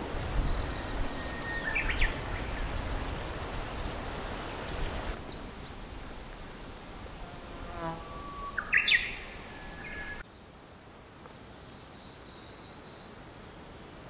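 Outdoor nature ambience: a songbird gives two phrases, about two seconds in and again near nine seconds, each a held whistle followed by a quick flourish of higher notes. Faint insect buzzing and a low rumble of wind sit under the first few seconds, and the background drops suddenly to a quieter hush about ten seconds in.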